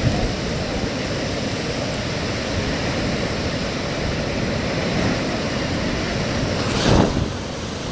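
Hurricane winds blowing: a steady rushing noise with a brief louder surge about seven seconds in.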